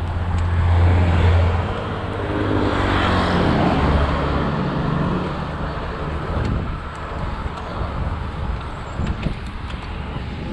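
A motor vehicle passing close by on the road, its engine note falling in pitch as it goes by, about three to five seconds in, over steady road and wind noise.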